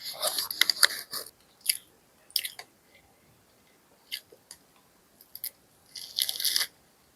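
Crunching and chewing of crispy fried fast food: a dense run of crisp bites at the start, a few single crunches in the middle, and another dense burst of crunching about six seconds in.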